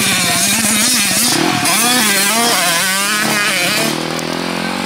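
Motocross dirt bike engine revving up and down as it is ridden, its pitch rising and falling over and over, easing a little near the end.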